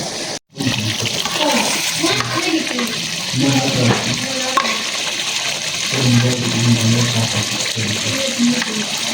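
Steady rushing hiss of running water, with people talking underneath.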